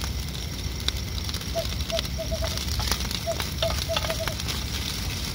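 Fried rice sizzling in a metal pan over a camp stove, being fried until it crisps, with sharp clicks and scrapes as a spoon stirs it. An animal's short chirps come in quick runs of four or five, twice.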